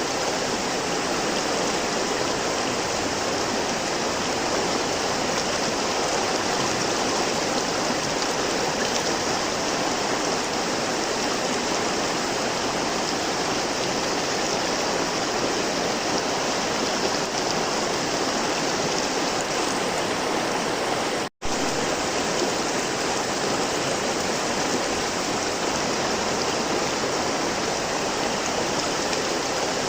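River water flowing steadily over rocks, an even rushing sound, broken by a split-second gap of silence about two-thirds of the way through.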